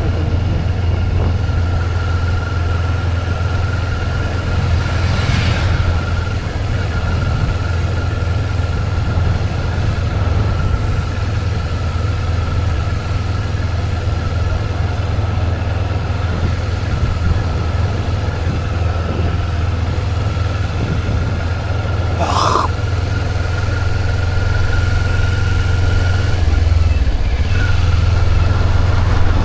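Motorcycle engine running steadily at cruising speed with road and wind noise, a steady high whine over the low engine hum, getting a little louder near the end. A brief higher sweep passes twice, about five seconds in and again about twenty-two seconds in.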